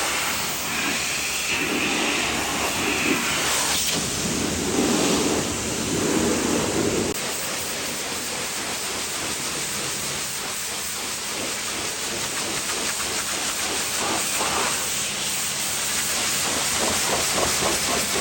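High-pressure water spray hissing steadily against a truck's body, with a fast, even pulsing near the end.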